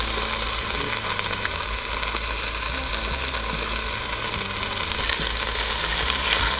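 Sautéing onion, garlic and thyme sizzling steadily in a pot, a continuous crackle of frying, with a steady low hum underneath.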